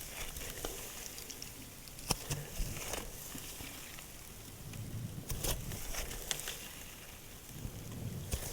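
Hands squishing and poking slime, making scattered sticky clicks and small pops at an irregular pace, some in quick pairs, over soft squelching.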